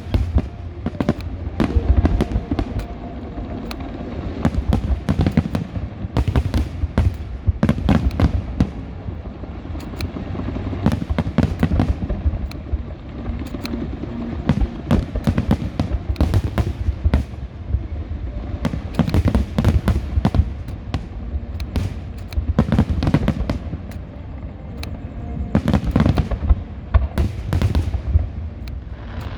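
Fireworks display in a dense, continuous barrage: many sharp bangs and crackles a second over a low rumble.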